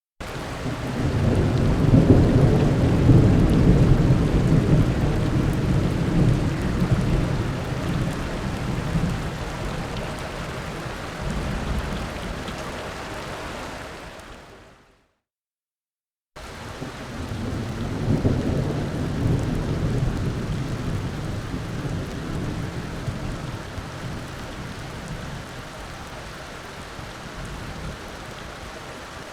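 Thunderstorm: a low rumble of thunder over steady rain swells a couple of seconds in and slowly fades. It drops to silence for about a second, then a second thunder-and-rain take starts suddenly and fades the same way.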